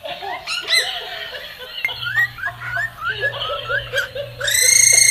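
A bird making a quick series of short rising, laugh-like calls, then a loud drawn-out screech starting near the end.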